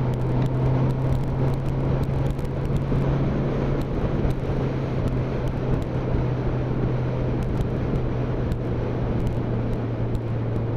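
Motorcycle engine running at a steady cruising speed, its note holding one even pitch, under a constant rush of wind and road noise.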